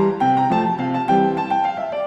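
Background piano music, a melody of struck notes moving at a few notes a second.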